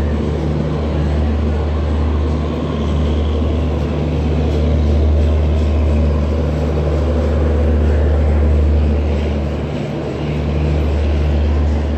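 Indian Railways passenger train coaches rolling past a station platform: a loud, steady low rumble and drone that dips briefly twice.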